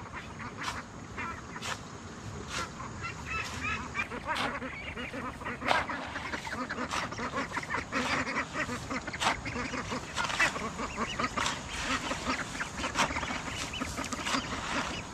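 Birds calling in short, scattered cries, with a string of sharp knocks or scrapes about once or twice a second.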